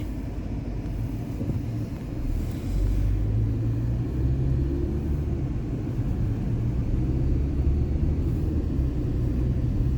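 Car in motion: a steady low rumble of engine and road noise, getting a little louder about two and a half seconds in.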